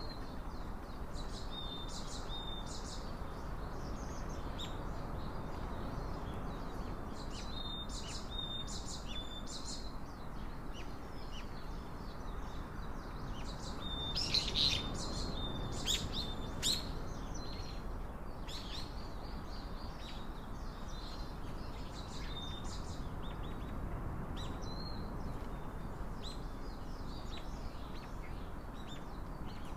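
Small songbirds chirping: many short, high notes, repeated throughout and busiest about halfway through, over a steady low outdoor background rumble.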